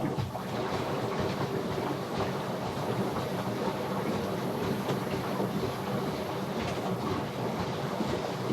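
Samsung front-load washing machine running its rinse-and-spin cycle, a steady rumble with rattling and clicking from the turning drum, after its clogged drain pump and hose were cleared. It starts suddenly at the beginning and holds steady throughout.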